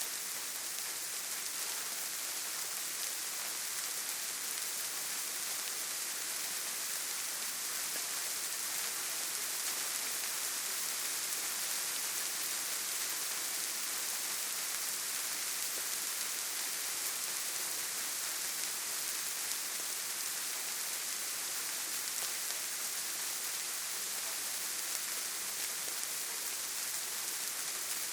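Steady rain falling: an even, unbroken hiss, strongest in the high end, with no let-up or change.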